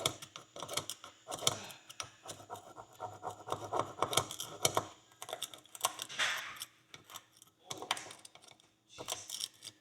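Knife tip scraping and clicking against a metal horseshoe in quick, irregular taps as packed dirt is picked out of its crease and nail holes, with a longer scrape about six seconds in.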